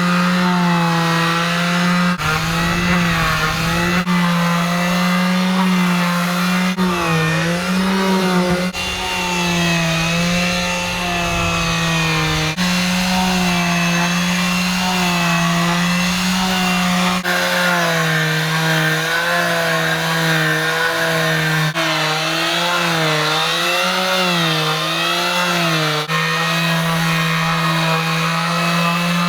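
Power sander running on a boat hull, sanding it with a coarser grit. Its motor hum is steady and loud, and the pitch wavers and dips briefly several times as the sander works the surface.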